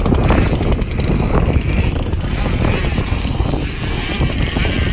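65cc two-stroke motocross bike engine running hard, its pitch wavering up and down, with wind buffeting the microphone.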